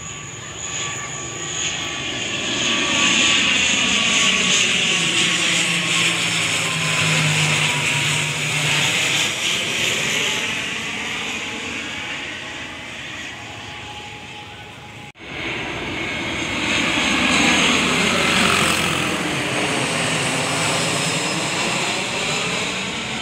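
Jet engines of an Airfast Boeing 737-300 cargo plane passing close by, the roar swelling and fading with a sweeping hiss. About two-thirds of the way through the sound cuts out abruptly, then the jet roar comes back and fades again.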